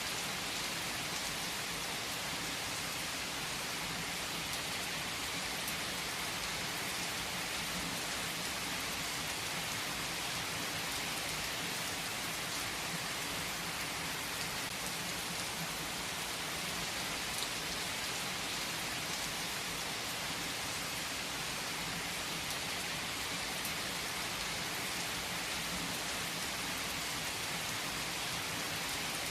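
Steady rain falling, an even hiss of drops that holds at one level throughout, with no thunder rumble standing out.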